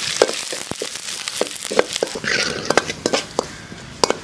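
Mustard seeds, shallots and curry leaves frying in hot coconut oil in a metal pan: a sizzling hiss with many sharp crackling pops, and a ladle stirring against the pan. The hiss eases after about three seconds while the pops go on.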